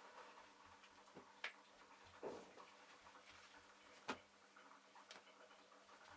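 Near silence: faint room tone with a steady low hum and a few scattered soft clicks or taps.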